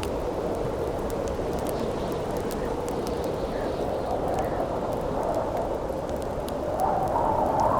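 Steady howling wind that swells into a louder gust near the end, over the scattered small crackles of a wood campfire.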